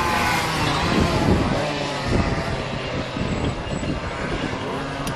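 Several small 50cc two-stroke racing motorcycles revving at high pitch, their engine notes overlapping and rising and falling. The sound eases a little toward the end, and two sharp clicks come right at the close.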